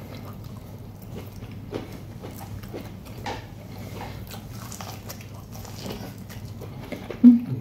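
A person biting and chewing boiled corn on the cob: a run of short, irregular clicks from bites and chews close to the microphone.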